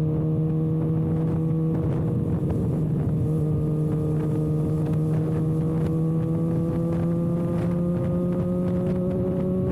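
Kawasaki ZX-6R inline-four running with no exhaust silencer canister while riding: a steady engine note whose pitch climbs slowly as the bike pulls in gear, with wind noise on the microphone.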